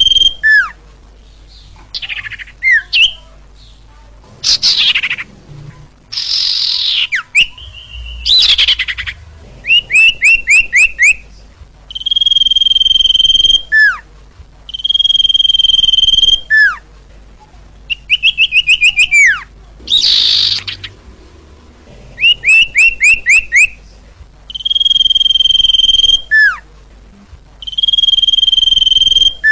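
Recorded song of the bird sold as 'sirtu', played as a lure call for trapping birds. Long steady whistles, each ending in a quick falling note, alternate with rapid strings of short downslurred notes and a few harsher sweeping calls.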